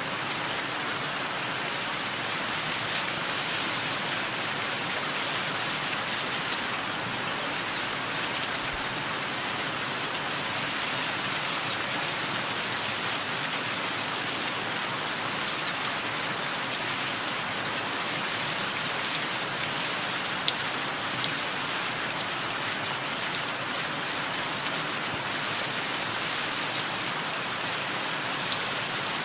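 Steady rain hiss with small birds chirping over it: short high chirps, often in twos or threes, every second or two.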